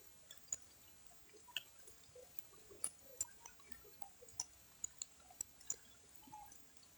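Faint, irregular dripping of water drops falling into still pond water after rain: scattered sharp drips and small plinks, a few each second.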